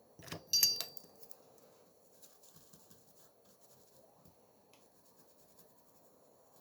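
A brief clatter of small tools being handled on a work surface, sharp clicks with a short metallic ring, then faint scattered taps and scratches.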